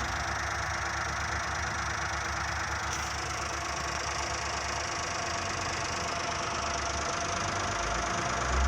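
Steady rain falling: an even hiss, with a low uneven rumble underneath.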